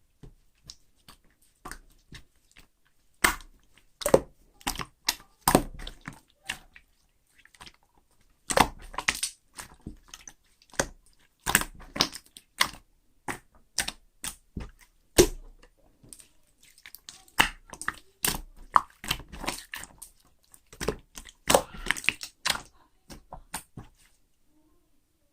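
Clear slime being handled, giving irregular crisp clicks and crackling pops.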